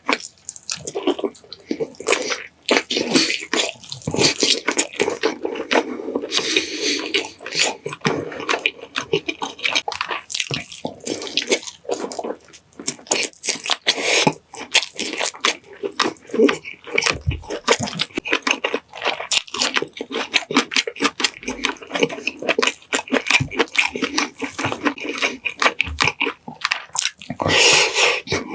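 Close-miked eating sounds of a person chewing saucy pineapple chicken: a dense, irregular run of wet smacks, clicks and squelches.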